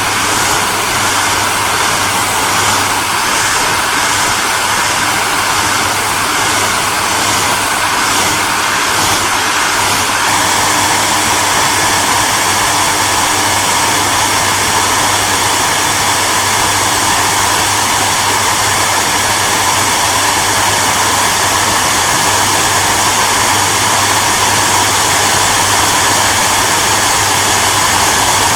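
Hairdryer running continuously: a steady rush of blown air over a low motor hum. The hiss wavers slightly for the first ten seconds or so, then holds steady.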